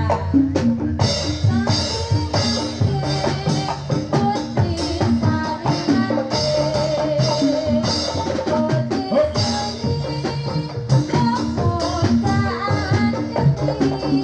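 Live Jathilan accompaniment music: drums and percussion playing a fast, busy beat under a pitched melody line.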